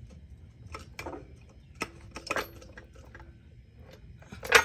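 Metal clinks, scrapes and knocks as a low-profile floor jack is moved and centred under a truck's frame, with one louder clank near the end.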